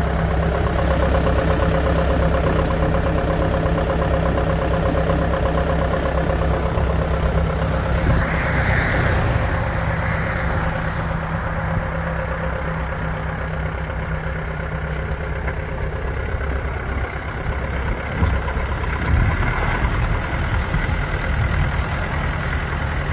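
John Deere 6110M tractor's diesel engine running steadily, with a brief hissing rush about a third of the way through.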